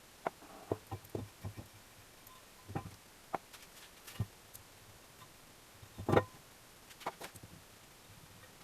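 Irregular clicks and knocks of tools and small parts being handled on a workbench, with the loudest knock about six seconds in.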